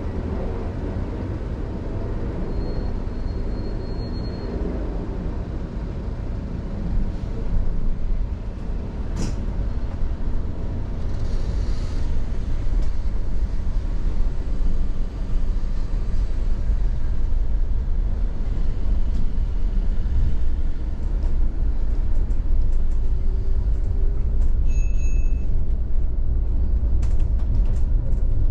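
Steady low rumble of street traffic, growing slightly louder, with a couple of brief high-pitched squeals.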